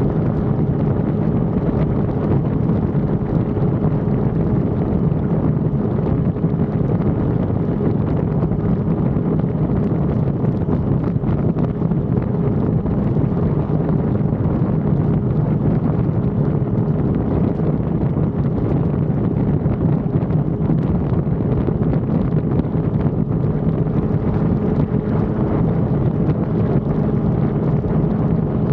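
Sport motorcycle running at a steady speed under heavy wind rush on the action camera's microphone. The engine holds an even pitch, without revving or gear changes.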